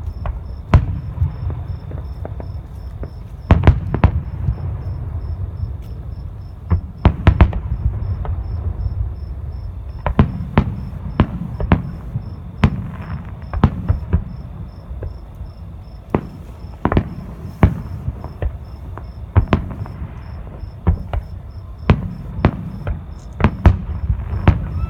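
Aerial fireworks going off: many sharp bangs and pops at irregular intervals, some in quick clusters, over a low rumble. A steady high-pitched insect chirping runs underneath.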